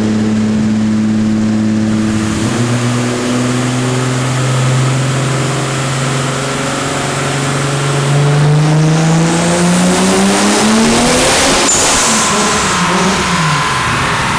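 Toyota 2JZ-GTE straight-six with a big single turbo doing a full-throttle pull on a chassis dyno. The engine note holds steady for a couple of seconds, then climbs steadily in pitch under a rising hiss, and after a sharp burst near the top the revs fall away. On this pull the boost overshoots to 2 bar because the Turbosmart 45 mm wastegate is not opening.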